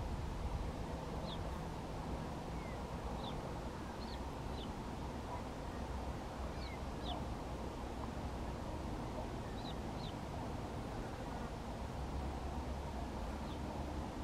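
Faint, short, high bird chirps, often in pairs, at irregular intervals of a second or a few seconds, over a steady low outdoor rumble.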